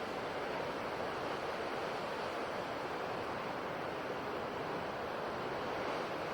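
Ocean surf washing on the shore: a steady rushing noise with no single breaking wave standing out.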